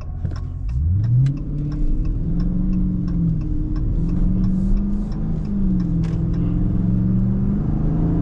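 Dodge Charger Scat Pack's 392 HEMI 6.4-litre V8, mid-muffler deleted, heard from inside the cabin and revving hard from about a second in under full acceleration, its note climbing and dropping back several times as the automatic shifts up. The exhaust is in street mode. A fast, regular ticking runs over it.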